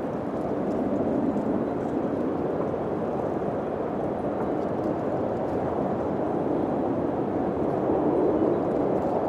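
Steady wind blowing, an even rush that swells slightly now and then, with faint scattered ticks.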